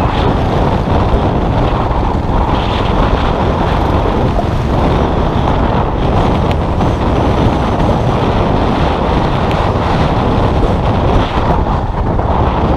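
Custom motorcycle engine running steadily while riding, under heavy wind noise on the microphone.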